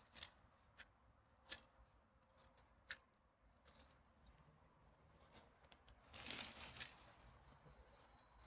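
Faint handling of litter: a few scattered sharp crackles and snaps, then a rustling, crinkling burst lasting under a second about six seconds in.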